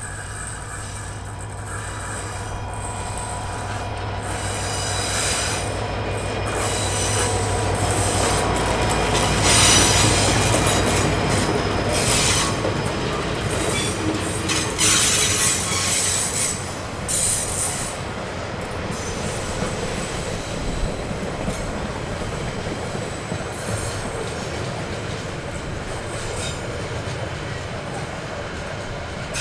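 A train rolling past close by. The noise builds to its loudest about ten seconds in, then goes on steadily with wheel-on-rail noise and repeated sharp clacks as the cars pass.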